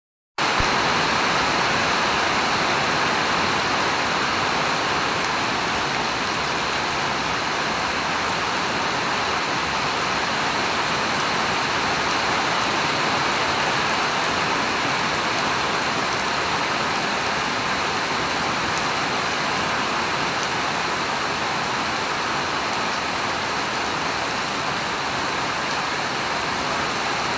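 Steady heavy rain falling, a dense even hiss with no single drops standing out.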